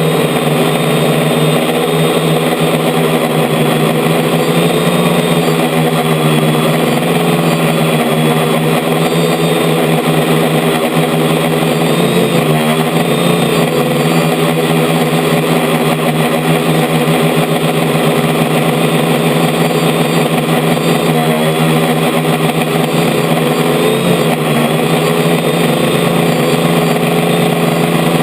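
DJI F450 quadcopter's electric motors and propellers humming steadily, heard loud and close from a camera mounted on the frame, with a few brief wavers in pitch as the throttle shifts.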